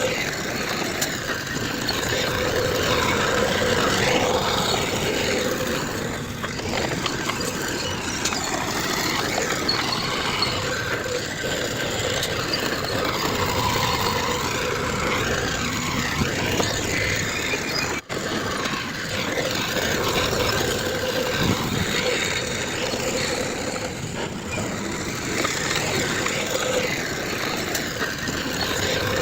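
Diesel engines of heavy earthmoving machinery running steadily, the bulldozer and dump trucks at work moving fill.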